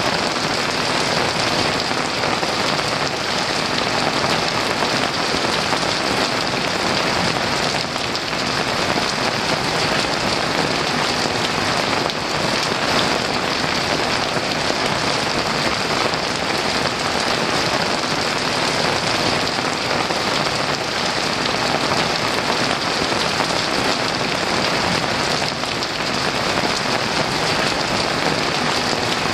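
Heavy rain falling steadily in a dense, even downpour, with no thunder.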